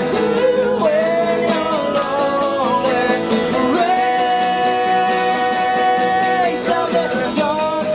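A band playing a country-style acoustic song, with plucked guitar under a melody that holds one long note through the middle.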